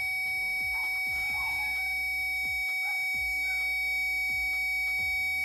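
Steady electronic tones, a high one with a lower one beneath it, held without change over a low hum.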